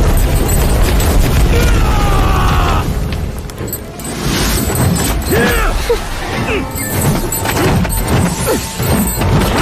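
Battle sound effects for an animated fight: heavy booms and crashing impacts with short swooping sounds, layered over a music score. The sound eases briefly a few seconds in, then the strikes come thick again.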